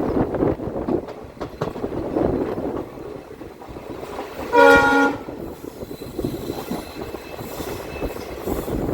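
Passenger train running, a steady rumble with scattered clicks of wheels over the rails. About halfway through, the WDP4B diesel locomotive's multi-tone horn sounds once in a short blast, the loudest sound.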